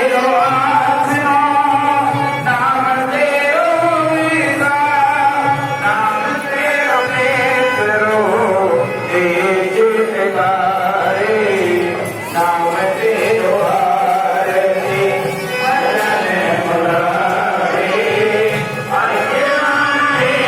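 Devotional hymn singing with melodic instrumental accompaniment, the voice gliding between held notes.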